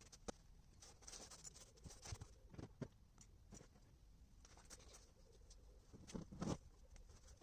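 Faint scattered clicks and light knocks of hands handling parts during the air filter change, with a few louder knocks about six seconds in.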